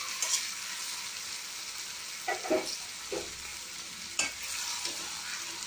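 Marinated chicken pieces sizzling in hot oil and fried onions in a metal kadai, with a steady hiss. A spatula scrapes and knocks against the bowl and pan several times as the chicken is tipped in and pushed about.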